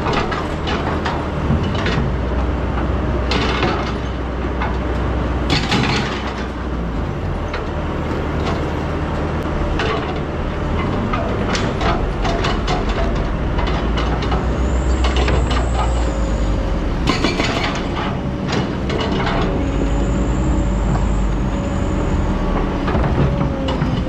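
Excavator at work: its diesel engine runs steadily under repeated clanks and knocks as the bucket digs and scrapes through sand and stones. Twice in the second half a high squeal is drawn out for a second or two.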